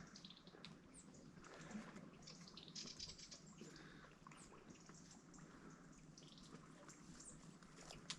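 Faint outdoor ambience with scattered short, high-pitched chirps and ticks over a soft background hiss.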